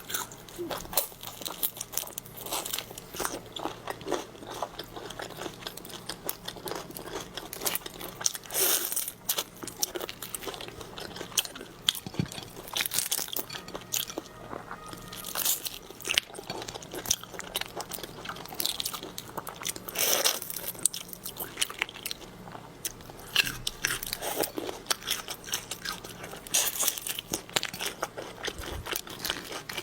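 Close-miked eating of shrimp: crunchy bites and chewing, with irregular crackles and louder crunches now and then.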